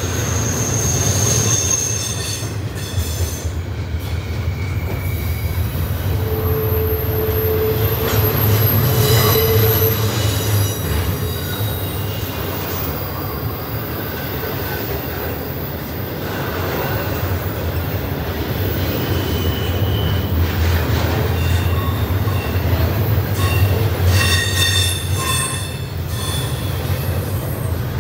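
CSX double-stack intermodal freight train's well cars rolling past with a steady low rumble. High-pitched wheel squeals come and go over it, most strongly about a second in, in the middle, and again near the end.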